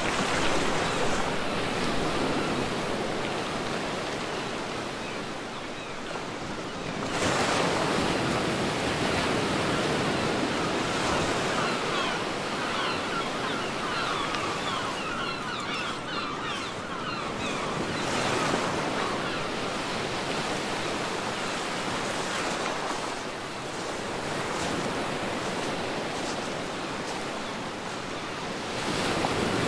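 Sea waves breaking on a beach: a steady wash of surf that surges about every ten seconds as each wave comes in, three times, with fizzing foam between.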